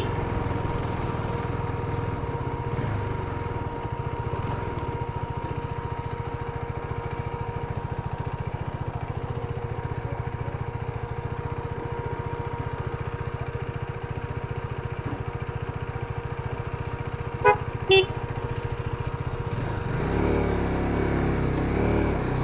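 Motorcycle running steadily on the road, with a steady high whine over the rumble for the first part. Two short horn toots about half a second apart near the end.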